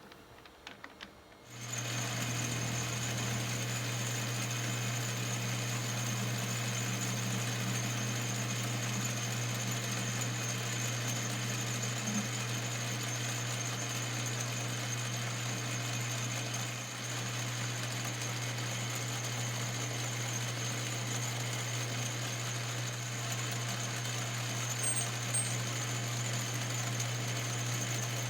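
Metal lathe starting up after a few light clicks about a second and a half in, then running steadily with a low hum and a high whine while facing off a piece of aluminum hex stock.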